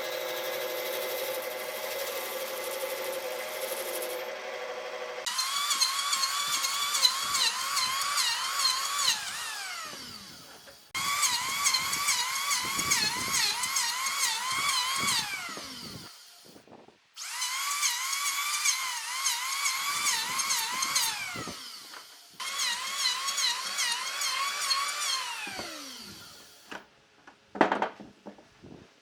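Electric power tool working wood. A steady motor hum gives way to four runs of a higher-pitched motor whose pitch sags and recovers over and over as it bites, each run ending in a falling spin-down. A few knocks come near the end.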